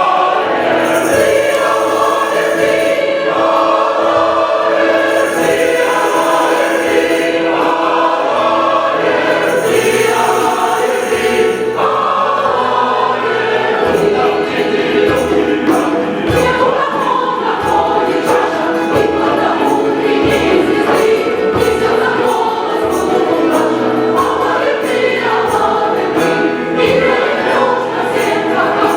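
Large choir singing in harmony with instrumental accompaniment, percussion strokes keeping a steady beat through the latter part.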